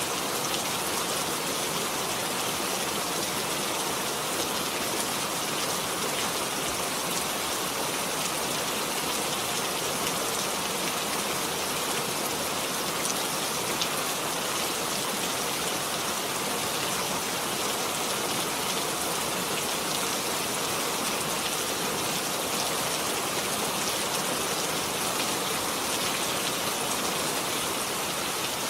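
Steady rain falling, an even hiss with fine drop ticks and no change in intensity.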